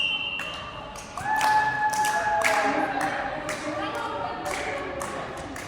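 Volleyball play: a series of sharp ball thuds and taps, with a player's drawn-out shout starting about a second in.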